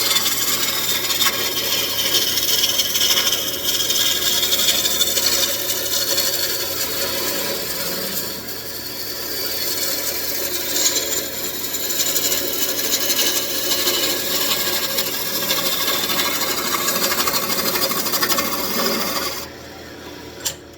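Roughing gouge cutting into a spinning wooden table leg on a wood lathe: a continuous rough scraping and shaving noise as the wood is roughed down to one diameter. The cutting stops about a second before the end, and the level drops sharply.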